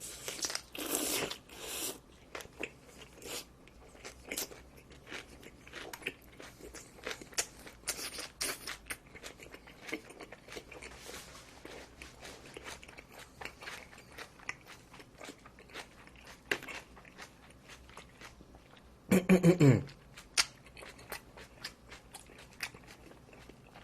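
Close-up chewing and crunching of a mouthful of barbecued pork belly and smoked duck with white kimchi and chili pepper, with many small clicks of the mouth. About 19 seconds in, a short hum falls in pitch.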